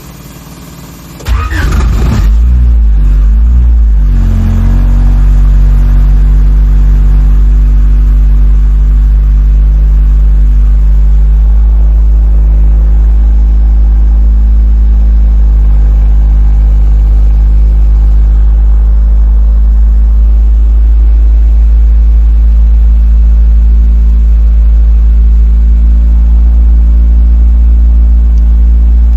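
Car engine on a cold start catching about a second in, its revs wavering for a few seconds before settling into a loud, steady idle.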